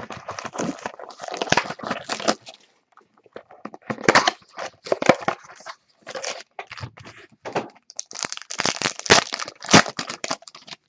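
Packaging crinkling and crackling in four bunches of quick rustles as trading card packs are opened and the cards handled, with short pauses between bunches.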